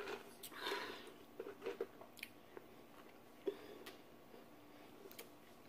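Faint chewing of fried chicken, with a few short, soft mouth clicks scattered through.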